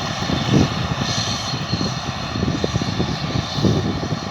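Large farm machinery engine running steadily, a constant drone with uneven low rumbling.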